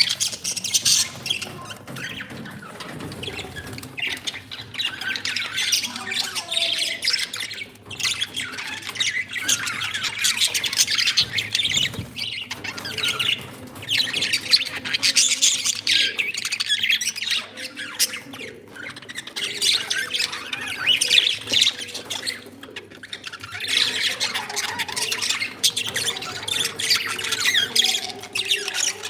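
Pet budgies and cockatiels chattering together, many high chirps and calls overlapping without a break.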